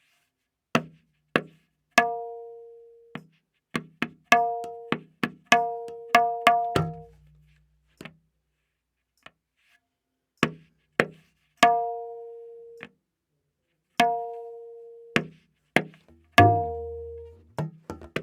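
Tabla playing a slow vilambit ektaal theka: sparse, widely spaced strokes, the dayan ringing on its tuned pitch of A# after the open strokes. The bayan sounds deep strokes twice, about seven seconds in and again near sixteen seconds, the first sliding down in pitch.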